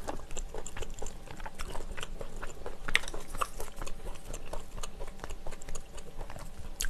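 Close-miked chewing of a mouthful of seafood rosé pasta with glass noodles, a run of small irregular mouth clicks and smacks.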